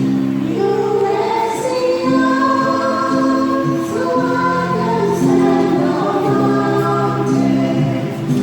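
Church choir singing a sacred song in parts, the voices holding long notes that change pitch every second or so.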